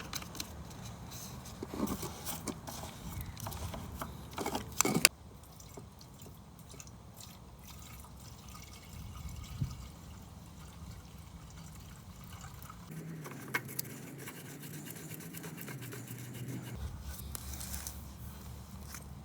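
Faint clicks and rustling from hands handling mower parts and tools, sharpest in the first five seconds, then a low steady background hum.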